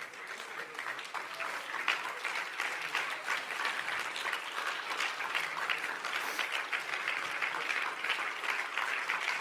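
A congregation applauding, a dense patter of many hands clapping at an even level.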